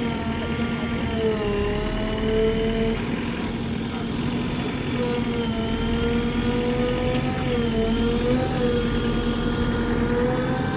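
Heavy vehicle's diesel engine running steadily, its pitch dipping briefly a couple of times.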